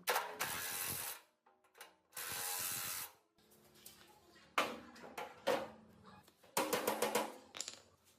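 Workshop tool sounds in short cut-together pieces: two bursts of hiss-like noise about a second each, then rapid ratcheting clicks near the end.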